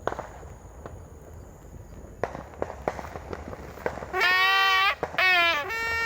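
Scattered firecracker pops over background noise, then, about four seconds in, three loud, nasal, buzzing toots, each a fraction of a second long and steady in pitch.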